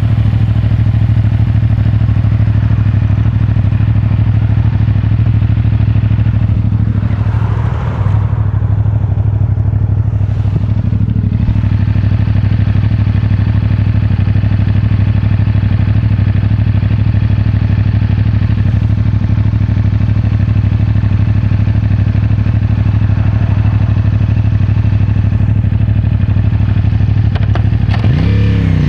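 CFMOTO 450MT's parallel-twin engine with stock exhaust, running steadily at cruising revs, heard from close up through a microphone in the rider's pocket. About eight seconds in the engine note dips briefly, and near the end it drops and climbs again as with a gear change.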